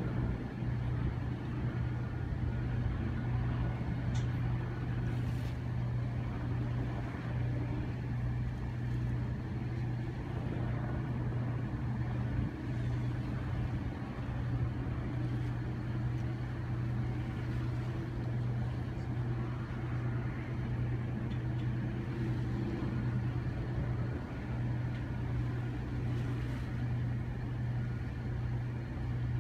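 A steady, low engine drone, unchanging throughout, over a background of broad noise.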